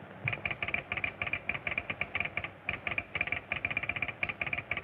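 A rapid run of short, sharp clicks, several a second, heard through a telephone receiver: a message being tapped out in code over the line.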